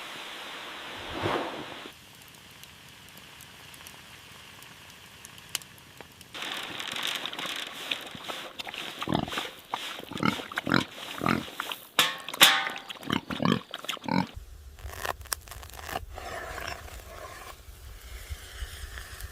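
Farm animals making a run of short, sharp calls. The sound changes abruptly several times, as at cuts between clips.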